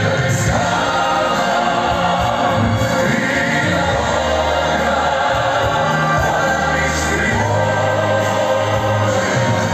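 Music: a male vocal group sings in choral harmony over accompaniment, with sustained chords and low held bass notes and no clearly sung words.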